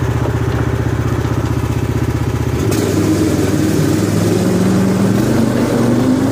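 Stock Predator 420cc single-cylinder four-stroke go-kart engine running at a steady low speed, then throttle opened about a third of the way in, with the revs rising steadily as the kart pulls away.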